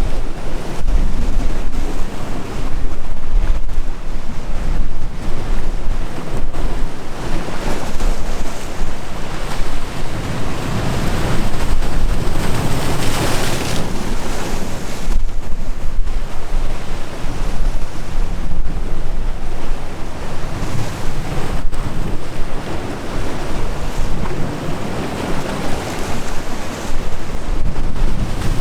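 Sea waves surging and breaking, with strong wind buffeting the microphone. One wave swells up and breaks louder about halfway through.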